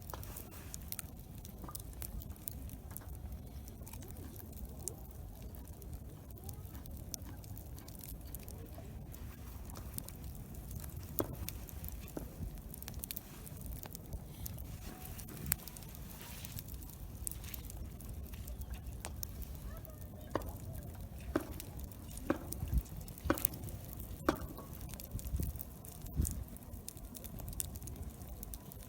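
Wood campfire crackling, with scattered sharp pops that come more often in the last third, over a steady low rumble.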